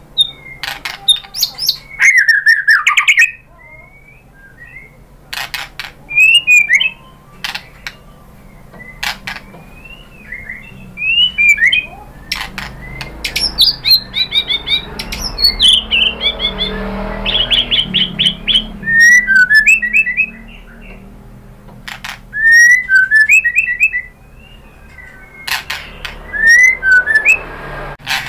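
White-rumped shama (murai batu) singing in loud bursts of fast, varied whistled phrases that rise and fall, mixed with sharp clicking notes, with short pauses between bursts.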